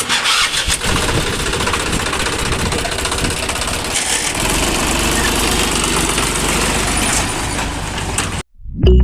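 A motor running steadily with a dense, rough mechanical noise, which cuts off abruptly near the end.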